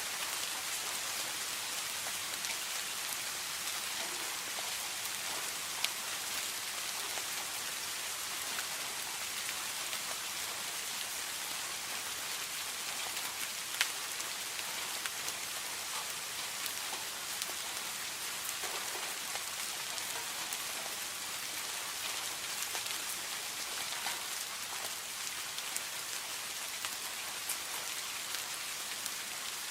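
Steady rain falling, an even hiss with the crisp ticks of individual drops striking a surface, a couple of them sharper and louder.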